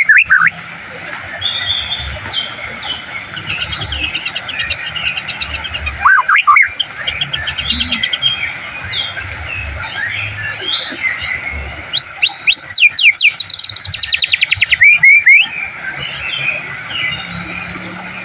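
White-rumped shama singing a busy run of varied whistles and chirps, with a short loud rising call about six seconds in. About twelve seconds in it breaks into a loud, fast burst of rapidly repeated sweeping notes lasting about three seconds.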